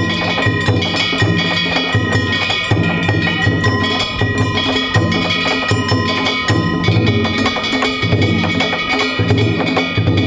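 Danjiri-bayashi festival percussion: a large drum beaten in a steady rhythm under rapid, continuous clanging of small hand-held gongs (kane), whose ringing lingers between strikes.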